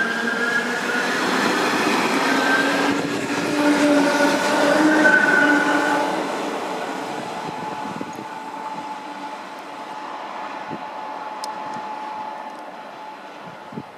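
ČD class 460 electric multiple unit pulling away: the traction motors whine, climbing slowly in pitch as the train gathers speed, over the rumble of the wheels. After about six seconds the sound fades steadily as the train moves off, leaving a faint whine.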